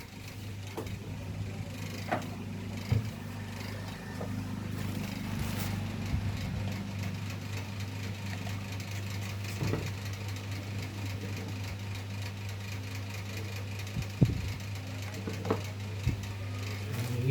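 Table fan's electric motor running with a steady low hum, punctuated by a few sharp clicks and knocks.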